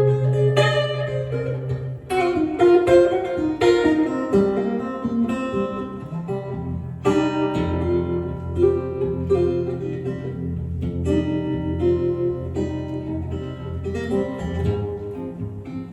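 Guitar instrumental break in a folk song: a melody of single picked notes over held low bass notes.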